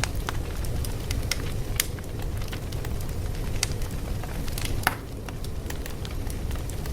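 Wood fire crackling: a steady low rumble with irregular sharp pops and snaps, the loudest snap about five seconds in.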